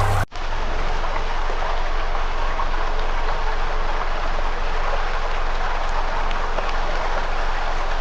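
Campfire burning with a steady hiss and scattered small crackles. It comes in after music cuts off abruptly about a quarter second in.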